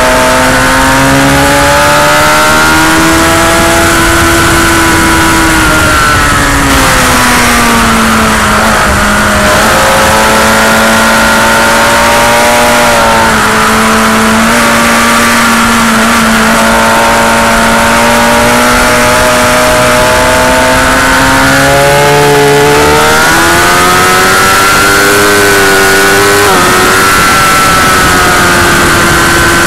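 Motorcycle engine ridden hard around a race circuit, heard from on board. The engine note swells and sinks with the throttle, drops low through a long slow stretch near the middle, and steps in pitch at gear changes about two-thirds and seven-eighths of the way through, over a steady rushing noise.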